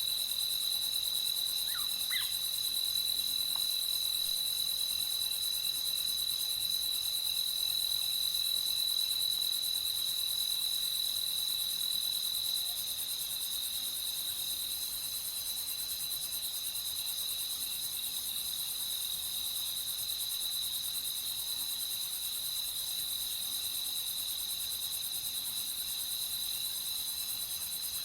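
Night chorus of crickets: a steady high-pitched trill with a denser insect hiss above it. A few short rising calls from some other animal come about two seconds in.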